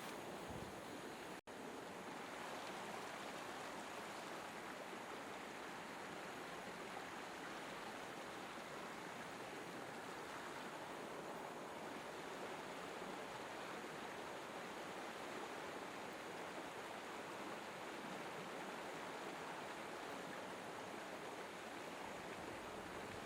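River water flowing steadily, a continuous even rushing. It cuts out for an instant about a second and a half in.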